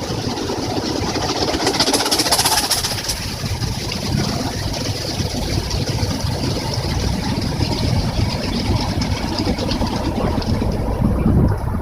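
Automatic car wash machine running: a steady rush of water and machinery, with a stretch of crackly hiss about two seconds in.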